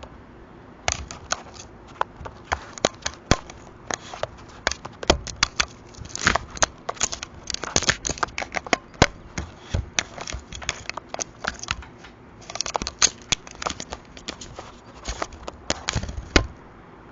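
Rapid, irregular tapping and clicking of a crow pecking and pulling at an Arlo security camera, picked up close by the camera's own microphone. The tapping starts about a second in, pauses briefly past the middle, and stops shortly before the end.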